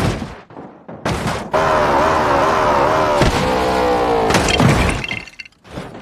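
Car crash sounds: several sudden impacts with crunching and shattering. Between them, for about three seconds, a wavering pitched sound with several tones rises and falls.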